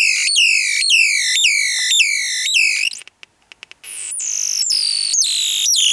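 Electronic bird-chirp generator, a transistor oscillator pulsed by an astable multivibrator, sounding repeated chirps that each fall in pitch, about two a second. About three seconds in it cuts out with a few clicks, then comes back as a briefly held tone before chirping again.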